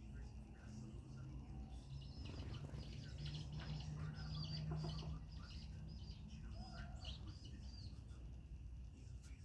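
Chickens chirping and calling in many short high notes, busiest in the middle, over a low steady hum.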